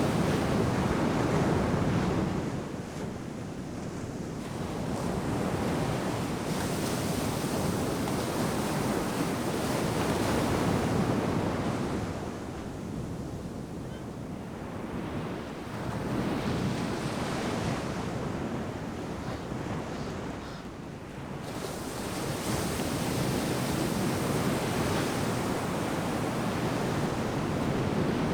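Ocean surf breaking on a beach, in waves that swell and ease in turn about every five to six seconds.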